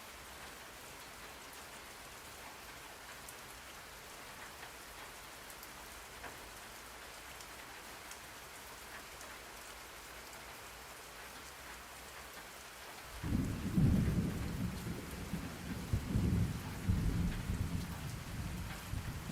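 Steady rain falling, with a loud low roll of thunder breaking in about two-thirds of the way through and rumbling on to the end.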